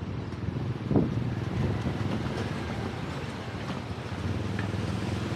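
Road traffic noise with wind rumbling on the microphone, and a brief louder sound about a second in.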